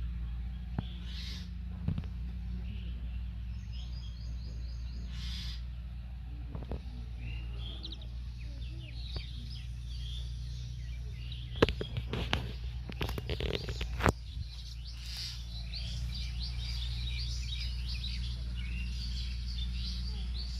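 Many small birds chirping, with a cluster of sharp clicks or knocks about twelve to fourteen seconds in, over a steady low hum.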